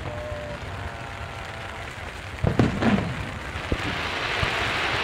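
Steady rain hiss, with two deep firework booms about two and a half and three seconds in and a sharper bang shortly after. The hiss grows brighter toward the end.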